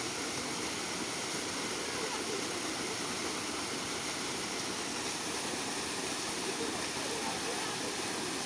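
Steady rush of water falling at a small forest waterfall, an even, unbroken noise.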